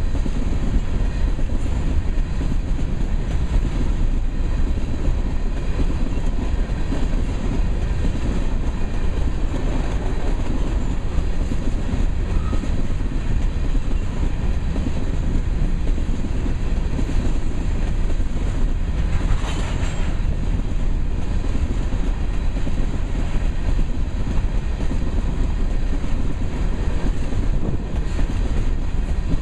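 Covered hopper cars of a freight train rolling past: a steady low rumble of steel wheels on rail with some clickety-clack, and a brief harsher rasp about two-thirds of the way through.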